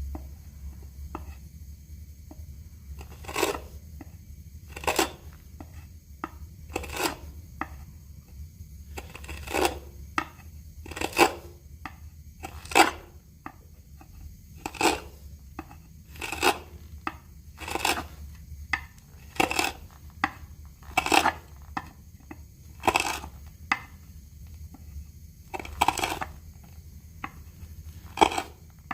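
Hand tool striking a mulberry wood blank in steady repeated blows, one short sharp knock about every one and a half to two seconds, over a low steady hum.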